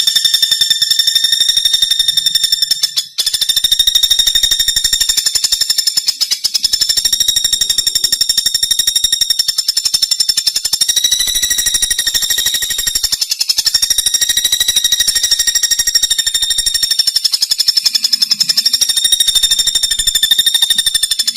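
Pelatuk bawang woodpecker calling in a fast, continuous rattling trill on a steady high pitch, with a short break about three seconds in.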